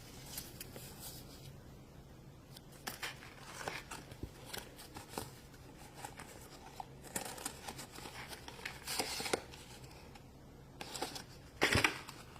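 Plastic and paper packaging being handled and unwrapped by hand: scattered soft crinkles and rustles, with a louder rustle near the end.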